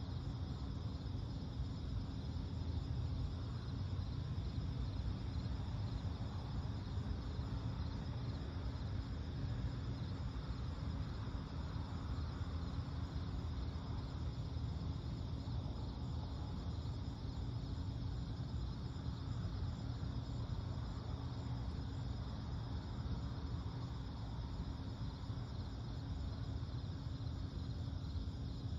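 Steady pre-dawn chorus of crickets and other insects trilling without a break, over a constant low rumble.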